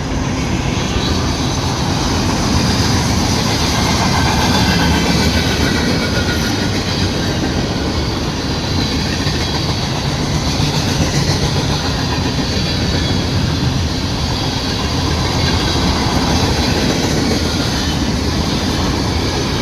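Freight train cars rolling past at close range, a steady loud rumble with wheels clacking over the rail joints.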